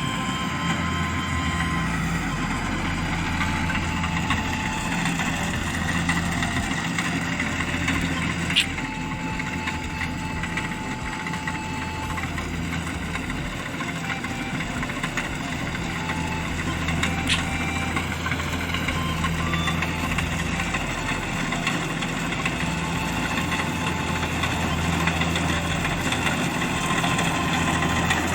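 Rice combine harvester's engine running steadily, with two sharp clicks partway through.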